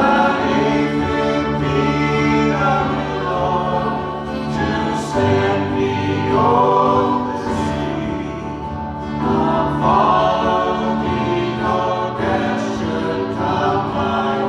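Worship music: singing with a choir-like sound over sustained accompaniment, with acoustic guitar.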